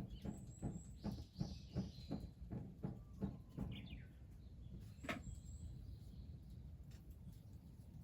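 Small birds chirping in short high notes. A run of soft, even thuds, about three a second, stops about four seconds in, and there is a single sharp click near the middle.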